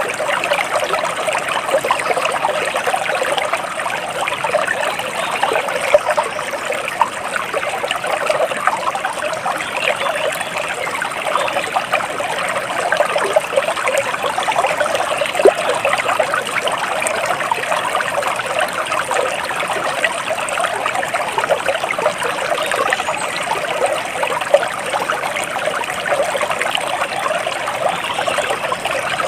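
Water flowing and trickling steadily, an even babbling rush like a small stream over stones, with no break.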